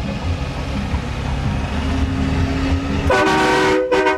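A truck's engine rumbling low, then about three seconds in a loud multi-note air horn sounding several tones at once. It blasts briefly, cuts out for a moment and blasts again.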